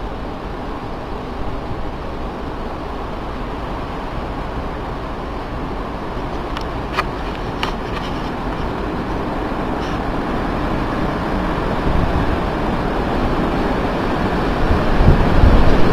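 Strong Santa Ana wind blowing steadily, building toward the end into a gust that buffets the microphone. A few sharp clicks about seven and eight seconds in.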